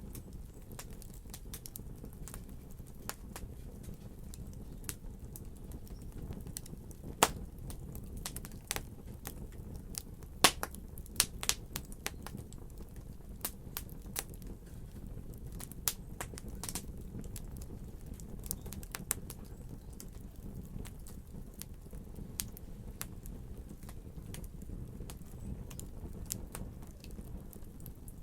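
Wood fire crackling: a steady low rumble with irregular sharp pops and snaps, a cluster of louder pops around a third of the way in.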